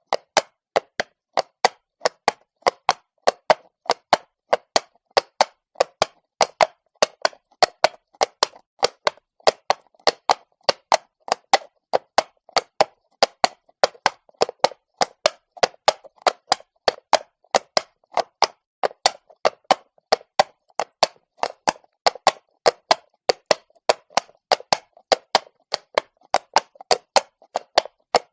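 Horse's hooves clopping on stone at a walk: sharp, evenly spaced hoofbeats, about three a second.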